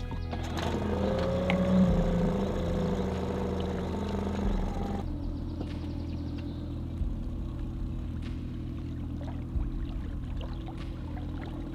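Outboard motor of an inflatable boat running steadily, its pitch wavering briefly in the first few seconds.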